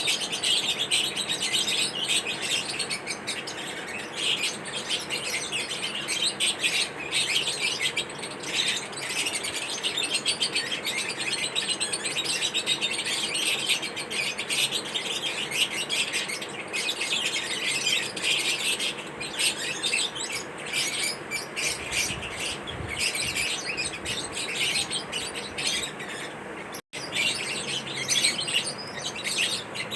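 Lovebirds chirping continuously in rapid, high-pitched chatter.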